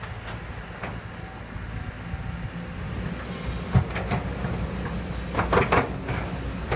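Kobelco hydraulic excavator running with a steady low engine rumble, with a sharp knock about four seconds in and a quick cluster of louder knocks a second and a half later.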